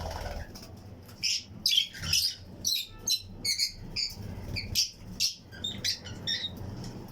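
A colony of Fischer's and lutino lovebirds chirping: many short, high-pitched calls in quick succession, overlapping, over a low steady hum.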